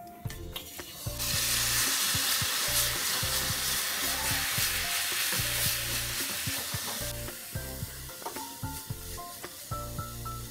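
Desiccated coconut sizzling as it fries in ghee in a nonstick pan, with a spoon stirring and scraping against the pan. The sizzle comes up about a second in and dies down after about seven seconds, over soft background music.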